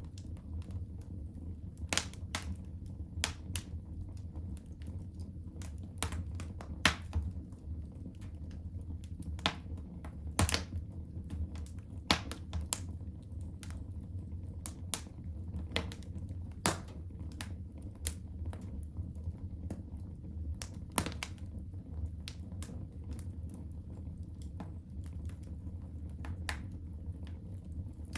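Wood fire crackling in a fireplace: irregular sharp pops and snaps, several louder than the rest, over a steady low rumble.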